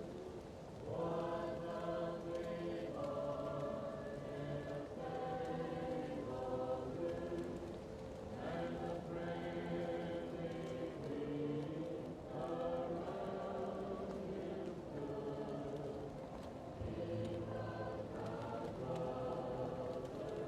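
Choir singing slow, held chords, muffled as if heard from another room, over a steady crackling fireplace.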